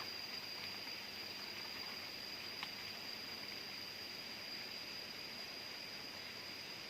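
Jungle ambience: a steady, unbroken high-pitched insect drone over a soft hiss, with one faint click about two and a half seconds in.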